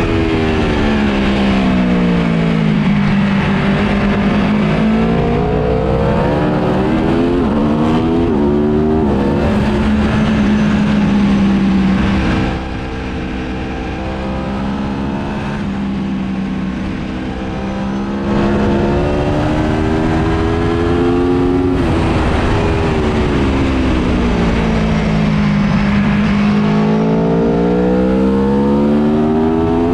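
Aprilia Tuono V4 Factory 1100's V4 engine at full track pace: its pitch falls as the bike slows for corners, then climbs again through the gears under hard acceleration. Gear changes show as sudden drops in pitch. This happens twice.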